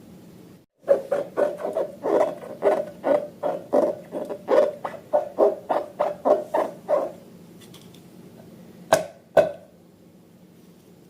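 Slime being squeezed and kneaded by hand: a quick run of squelches, about two to three a second for some six seconds, then two sharp clicks near the end.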